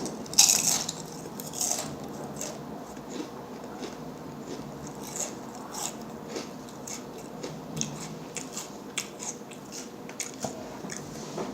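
A person biting into and chewing food close to the microphone. There are two loud crunchy bites in the first two seconds, then a run of small wet clicks and smacks of chewing.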